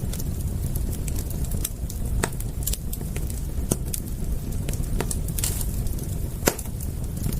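Wood fire crackling: irregular sharp pops and snaps over a steady low rumble, with the loudest pop about six and a half seconds in.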